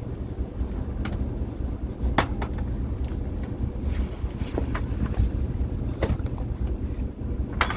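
Fishing boat's engine running steadily with a low rumble, with a few sharp knocks and clanks now and then.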